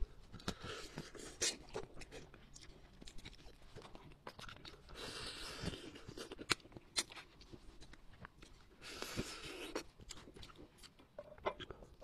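Close eating sounds of someone chewing and biting meat and bone from a spiced braised rabbit head: wet chewing with many sharp crunches and clicks, and two longer hissing stretches about five and nine seconds in.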